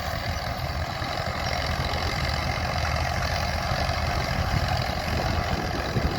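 Allis-Chalmers crawler tractor's engine running steadily, a low rumble, just restarted after sitting broken down most of the day.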